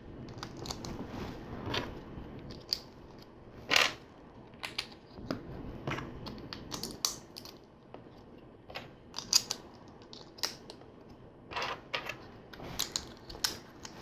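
LEGO bricks being handled and pressed together: irregular small plastic clicks and taps, with a few sharper clicks among them.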